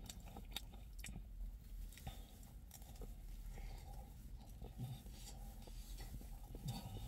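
A person biting into and chewing a slice of pizza close to the microphone, with irregular wet mouth clicks and smacks.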